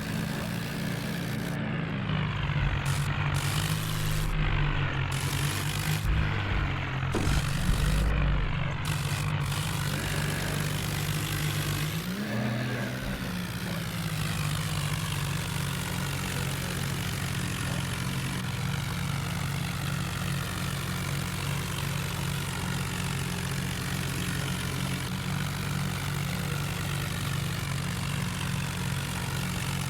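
Diesel tractor engine running. The pitch shifts over the first dozen seconds and then holds steady.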